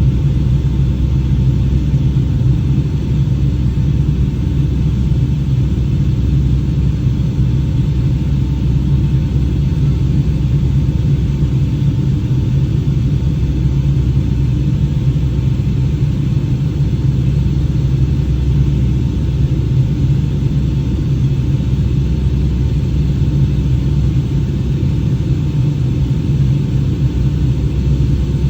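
Steady low rumble of a Boeing 757-200's jet engines and airflow heard from inside the passenger cabin in flight, with a faint steady whine above it.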